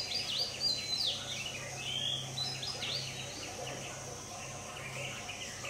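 Small birds chirping: a quick run of short chirps over the first three seconds, then a few scattered ones, over a steady low hum.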